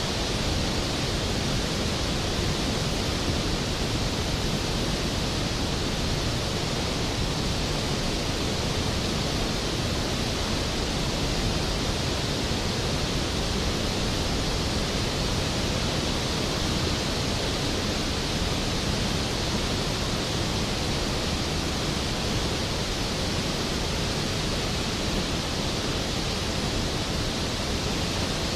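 Skógafoss waterfall's heavy water falling and crashing into its plunge pool: a steady, unbroken rushing roar.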